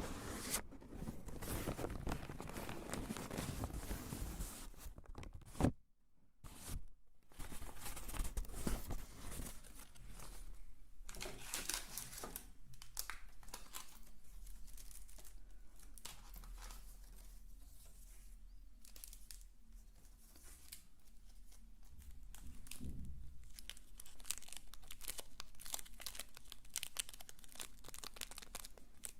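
Close-up ASMR crinkling and scratching of a crinkly material, a dense rapid crackle with a brief break about six seconds in.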